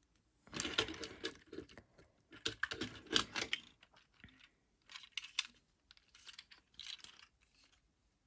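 Hard plastic parts of a toy upgrade kit and action figure being handled and fitted together: four bursts of rapid clattering clicks.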